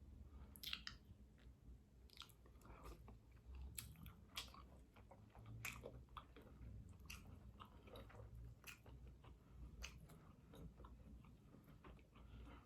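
Close-up chewing and biting of seafood-boil crab, with many short crisp clicks and crunches at irregular intervals, some from bits of shell.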